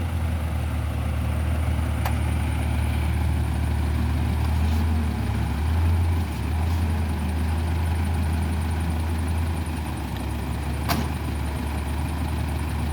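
Diesel engine of heavy equipment running at a steady low idle, with two sharp clicks, about two seconds in and again near the end.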